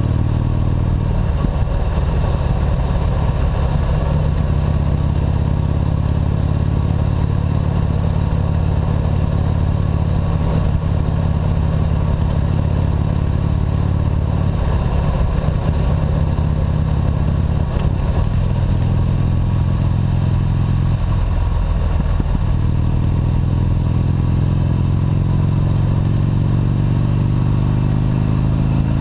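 Motorcycle engine running under way, a steady drone, with its pitch climbing over the last several seconds as it speeds up.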